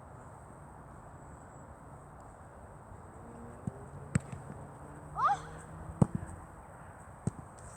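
A few sharp, separate knocks, four in all and spaced unevenly, over a steady background hiss, with a brief rising squeak about two-thirds of the way through.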